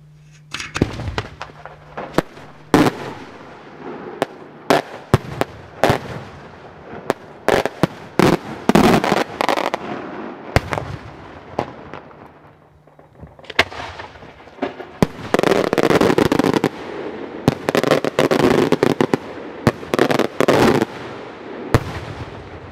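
Maltese beraq daytime fireworks shell bursting in the sky into a rapid string of loud bangs and crackle. The reports thin out around the middle, come thick again for several seconds, and end with a last few single bangs near the end.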